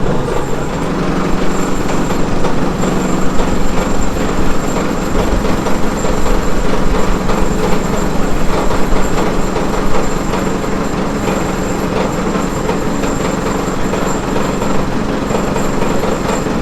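An engine running steadily at a constant pitch, with a thin high whine above it.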